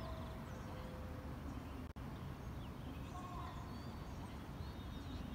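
Birds chirping in short rising and falling calls over a steady low rumble. The sound cuts out for an instant about two seconds in.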